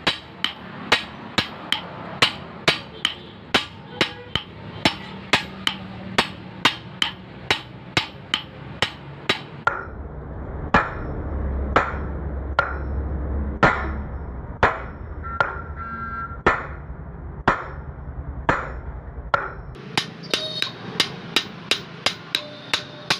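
Hammer blows on the steel blade of a toka (chaff-cutter) machine as it is forged for repair, in a steady run of about two to three strikes a second. In the middle the strikes slow to about one a second over a low hum, then the faster rhythm returns near the end.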